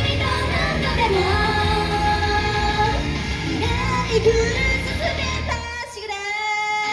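Japanese idol pop song with high female vocals over a steady bass beat. About five and a half seconds in, the bass and beat drop out, leaving held high notes.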